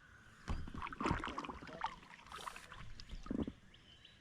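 Kayak paddle strokes: the blades dipping and splashing in the water, with light clicks and knocks, loudest about a second in and again near the end.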